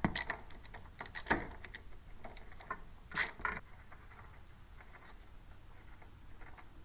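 Scattered light metal clicks and short scrapes of hand tools being worked on a spark plug of a Kohler lawn-tractor engine, most marked about a second in and again around three seconds in.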